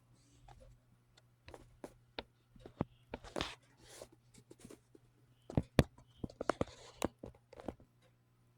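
Handling noise from a small plastic brick-built model: scattered clicks, taps and rustles, loudest as two sharp clicks about five and a half seconds in, over a faint steady low hum.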